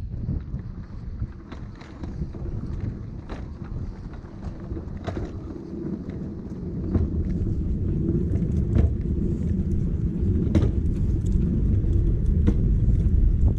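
Wind buffeting the microphone as a heavy low rumble that grows louder in the second half, with scattered sharp clicks and knocks.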